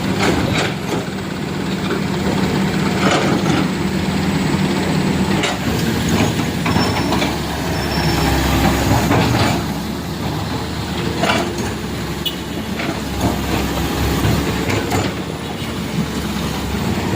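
Truck engine running, a steady drone whose pitch shifts about five seconds in, with scattered sharp clicks and knocks over it.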